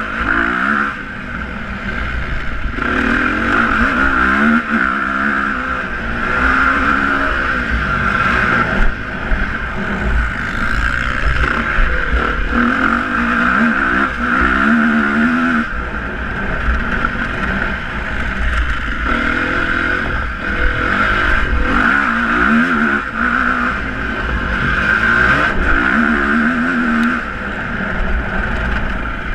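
Motocross motorcycle engines revving, the pitch climbing and dropping again and again as the throttle opens and closes.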